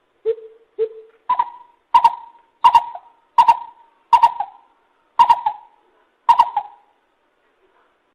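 Lesser coucal calling: two short low notes, then a series of seven higher notes, each starting sharply, with the gaps between them lengthening toward the end.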